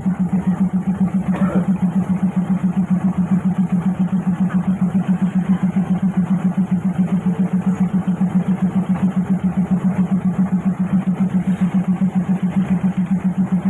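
Diesel railcar engine running steadily, heard from on board: a low hum that pulses evenly several times a second.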